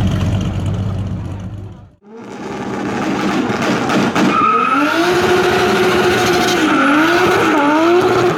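Plymouth Road Runner's big-block V8 rumbling at idle, fading out about two seconds in. Then a loud tyre squeal with a wavering pitch over the engine, as in a burnout.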